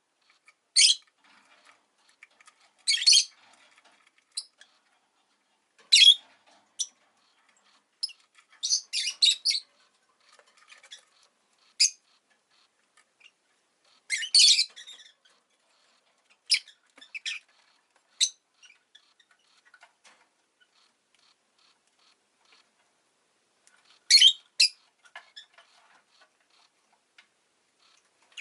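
Rosy-faced lovebird giving short, sharp, high chirps and squawks, singly and in quick runs at irregular intervals, with a lull of several seconds before two more calls near the end.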